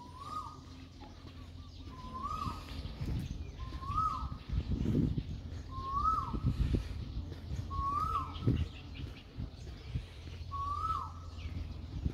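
A bird calling: a single rising-then-falling note repeated evenly about every two seconds, with low rumbling bursts partway through.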